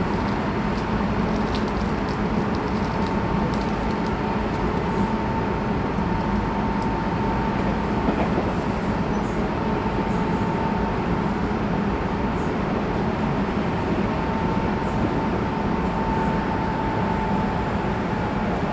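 Running noise inside the motor car of a Tobu 20400-series electric train with Toyo GTO inverter control, travelling at speed: a steady rumble of wheels on rail and traction equipment, with a thin whine that fades in and out.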